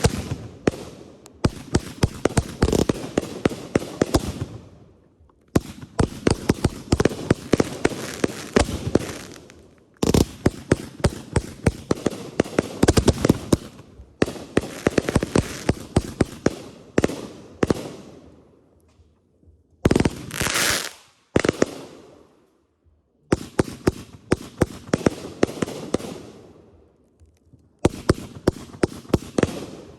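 Consumer fireworks going off in rapid volleys of sharp bangs and crackles, in clusters of a few seconds each separated by short pauses, with a brief hiss about two-thirds of the way through.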